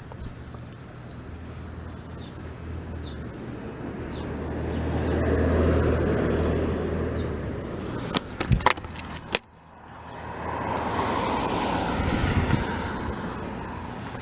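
Road traffic: a car passes, rising and fading around the middle, over a low steady engine hum. A short run of sharp clicks and knocks follows, then a second car passes near the end.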